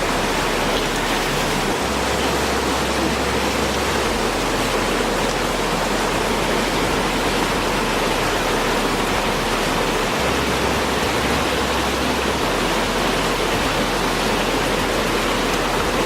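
A waterfall's falling water, a steady, unbroken rush.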